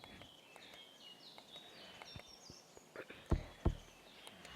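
Birds chirping in the background, a steady run of short, high, falling chirps. Two sharp knocks land close together a little past the three-second mark.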